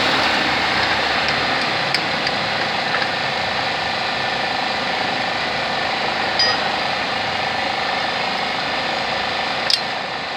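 A small engine running steadily, easing off a little over the stretch, with a few light ticks and a brief click near the end.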